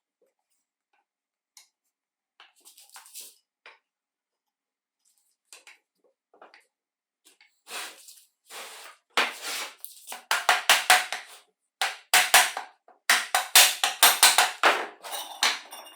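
Metal parts clinking and scraping against each other as they are handled: a few light clicks at first, then a quick, loud run of rattling metal scrapes and clinks in the second half.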